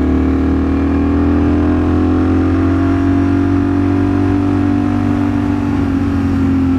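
Ducati Streetfighter V4 S's 1103 cc V4 engine running at a steady highway cruise, its note easing slightly then holding, with wind rumble on the camera's own microphone.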